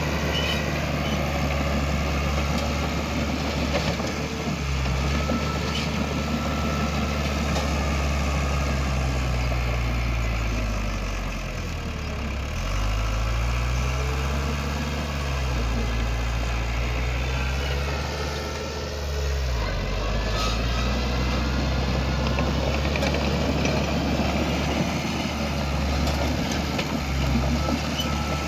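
Heavy earthmoving machine's diesel engine running steadily. Its pitch sags and climbs back several times as it is loaded and throttled, with the longest dip about twelve seconds in and a sharper one near twenty seconds.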